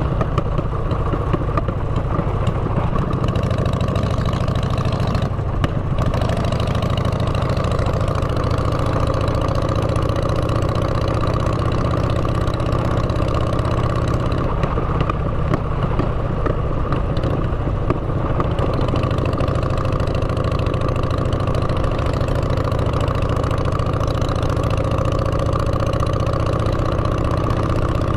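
Motorcycle engine running steadily through aftermarket exhaust pipes, with a slow, slight rise in pitch in the middle stretch.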